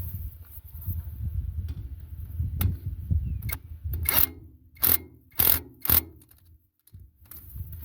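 Hammer tapping a steel rotary-tiller tine back into place, metal on metal. A few light knocks are followed by four sharp strikes about half a second apart, each with a brief ring.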